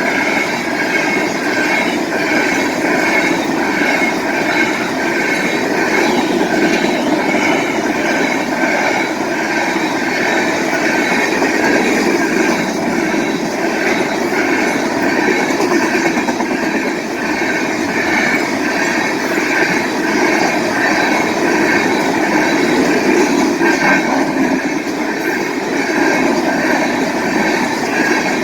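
Freight train cars rolling past a grade crossing with a steady rumbling clatter of wheels on rail. A crossing bell rings on top, about twice a second.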